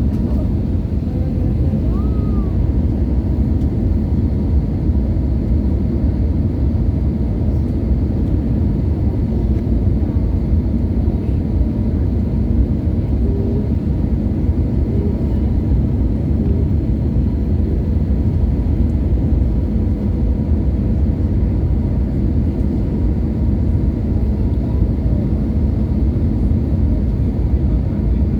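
Steady low rumble of an Airbus A320-200 airliner in flight, its engines and airflow heard from inside the passenger cabin.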